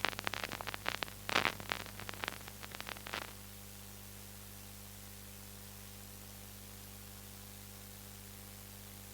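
Applause from a concert audience thinning to scattered claps and stopping about three seconds in, followed by a steady low hiss with a faint mains hum.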